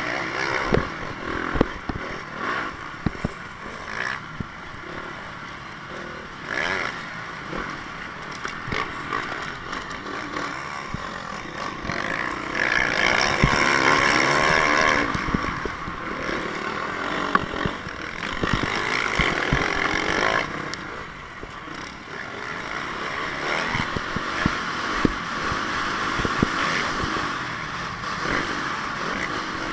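Honda CRF450 motocross bike's single-cylinder four-stroke engine running hard, its pitch rising and falling with throttle and gear changes, loudest about halfway through. Frequent sharp knocks and clatter from the bike and camera mount run through it.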